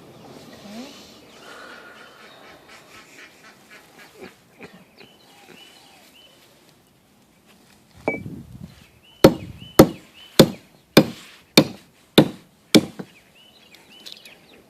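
Seven sharp chopping blows, about two a second, from a blade striking through a butchered bird's leg joint to take the leg off.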